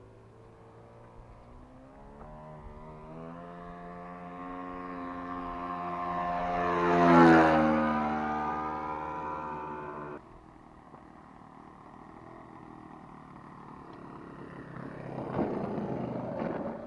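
ASP 61 four-stroke glow engine of an RC Decathlon model plane in flight, passing close by about 7 s in, its pitch dropping as it moves away. After an abrupt change about 10 s in the engine is fainter, with a louder rough rushing noise near the end.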